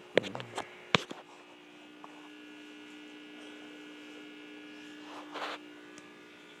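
Steady electrical hum with a few sharp clicks or knocks in the first second and a short rustle about five seconds in.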